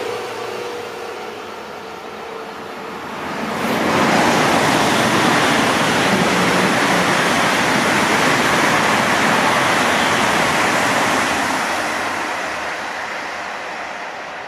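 A white ICE high-speed electric train passing at speed: a steady rush of wheels on rail and air starts abruptly about four seconds in, stays loud for several seconds, then slowly fades as the train moves away. At first, a red regional electric train that has just gone by is heard fading out.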